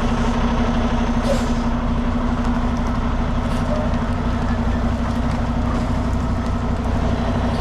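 Heavy diesel truck engine running steadily with a constant low drone, with a couple of short air hisses in the first few seconds.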